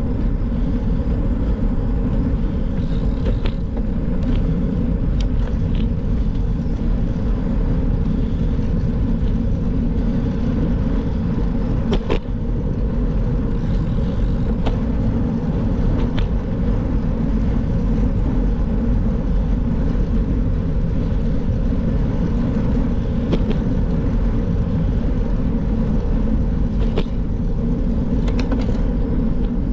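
Steady low rumble of wind and road noise picked up by the microphone while riding a bike, with a few faint clicks.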